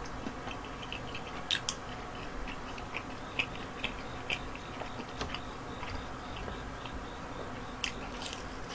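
A man chewing food quietly, with scattered small, irregular clicks through it.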